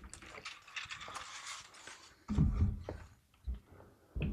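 Handling noise from PC parts and cables: rustling and scraping with light clicks, then a few dull knocks in the second half.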